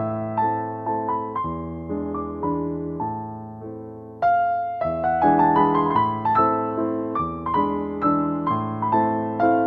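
Gentle, slow piano music, notes struck and left to ring; the phrase softens to a brief lull about four seconds in, then picks up again louder.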